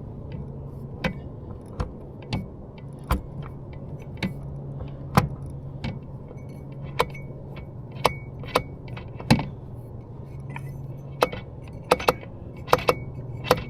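Irregular sharp metallic clicks and clunks from a Yamaha 25 hp outboard's shift linkage and lower unit, as it is shifted and the propeller is turned by hand to check that the gearcase is in neutral.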